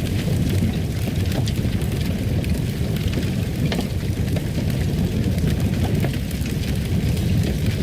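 Fire crackling in a fireplace: a steady low rumble of flames with scattered small pops and crackles.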